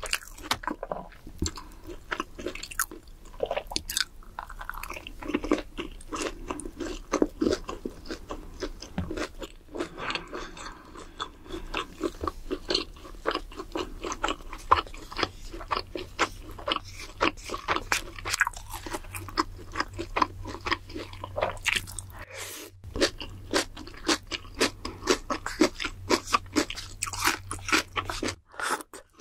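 Close-miked eating of crispy fried fast-food sides: crunching bites and chewing in quick succession, with a brief pause about three-quarters of the way through.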